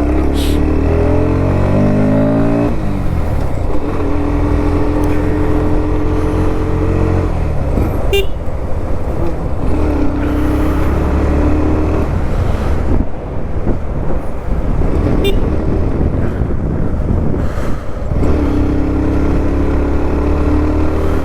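Motorcycle engine pulling away, its pitch rising for the first couple of seconds, then running at steady cruising pitch in spells, with a constant rush of wind and road noise that covers the engine for a few seconds in between.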